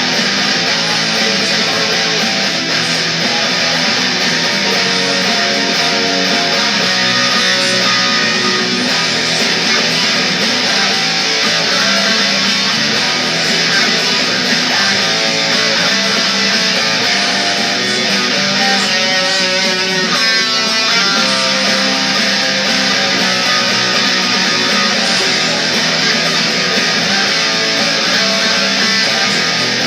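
Guitar playing a rock song, mostly strummed chords, with a quick run of notes about twenty seconds in.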